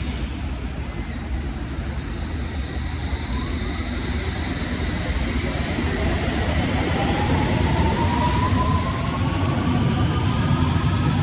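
London Underground train accelerating: a steady low rumble with the traction motors' whine rising in pitch from a few seconds in, growing gradually louder.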